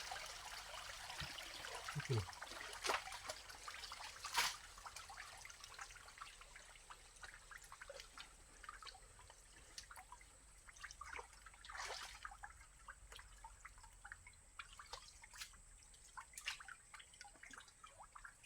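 Faint water trickling and dripping in a pond being drained, with scattered small splashes and sharp clicks; two of the splashes, about four and twelve seconds in, are louder.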